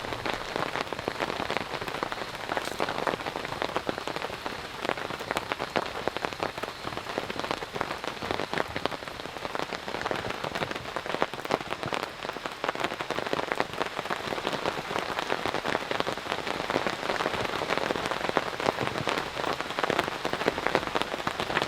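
Heavy rain falling steadily, with a dense stream of individual drops ticking on a surface close by.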